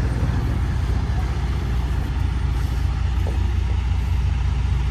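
Semi-truck's diesel engine and road noise while driving: a steady low drone.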